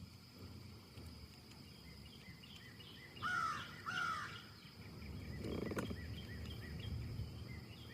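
A bird calls twice about three seconds in, over a low steady rush of wind in the trees and a background of small repeated chirps.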